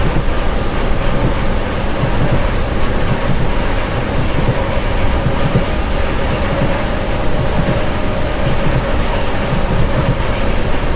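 Passenger train running, heard from inside the carriage: a steady rumble of wheels on the rails with a faint steady whine above it.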